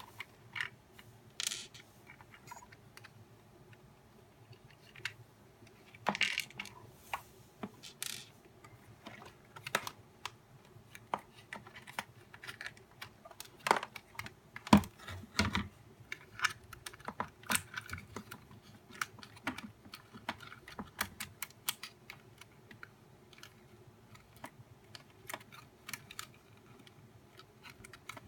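Irregular clicks, taps and light knocks of plastic parts being handled and fitted while a nail dust collector is taken apart or put together by hand, with a sharper knock about halfway through.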